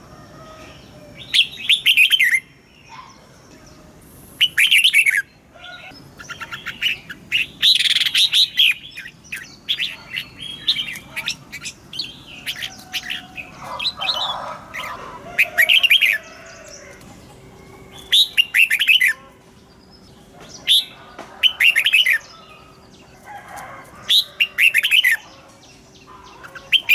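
Red-whiskered bulbul singing: loud, short phrases of quick whistled notes, repeated every two or three seconds.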